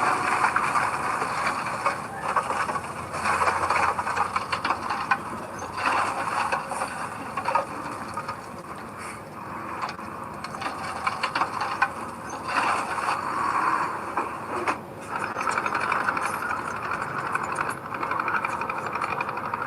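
Heavy earthmoving machinery at work: a diesel engine running, with rattling and clanking throughout.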